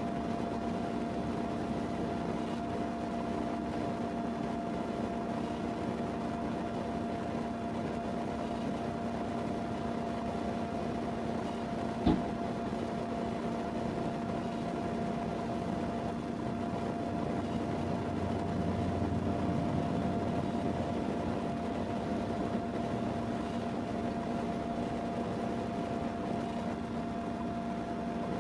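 Steady mechanical hum of a vehicle, with a constant tone through it, and one sharp click about twelve seconds in.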